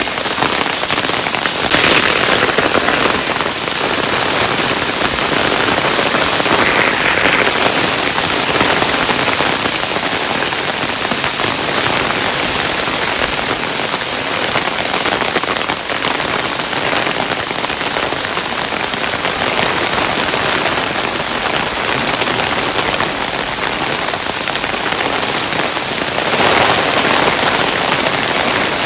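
Hailstones falling steadily, a dense patter of small impacts with a few brief louder flurries.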